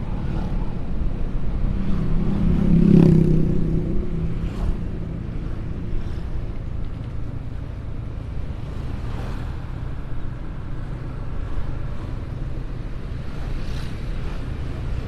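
Steady wind and road rumble while riding in traffic, with a vehicle's engine swelling louder about three seconds in and then fading.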